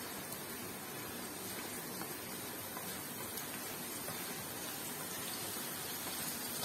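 Chopped onions sizzling steadily in hot oil in a pan.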